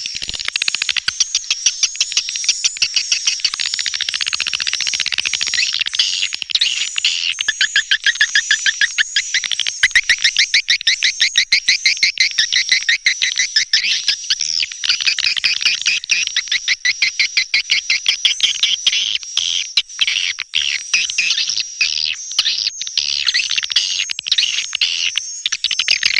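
Swiftlet calls: a continuous, rapid run of high, buzzy chirps, several a second, in the style of a 'neutral sound' lure track played to draw swiftlets to a nesting house.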